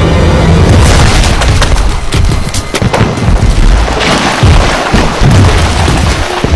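Heavy surging and crashing of seawater against ice floes: a deep rumbling boom with several sharp crashes, from killer whales making waves to break up the ice. Tense background music runs underneath.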